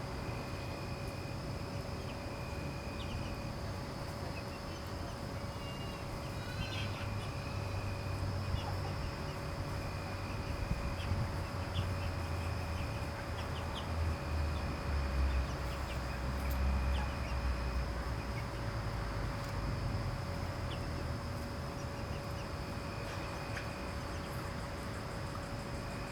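Yard ambience around foraging chickens: a steady high insect drone with a few short chirps and soft clucks from the flock. A low rumble swells about halfway through.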